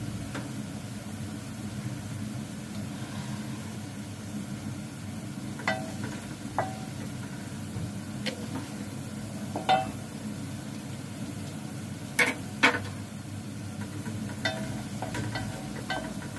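Onions frying in a metal pot on a gas stove, a steady low rush, with a spoon clinking and knocking against the pot every few seconds; two sharper knocks about twelve seconds in.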